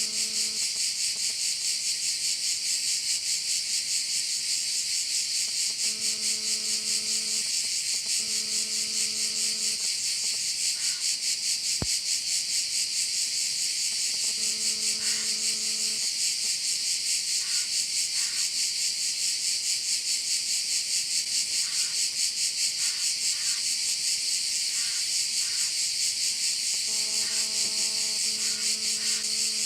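A steady chorus of insects chirring, a dense high hiss pulsing very fast, which the recording names as crickets. A faint low steady hum comes and goes four times, and there is a single soft click near the middle.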